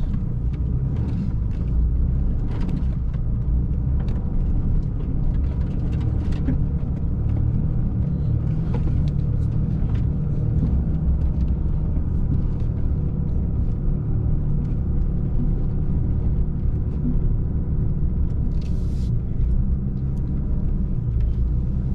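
Pickup truck driving up a muddy hill: a steady, even engine and road rumble.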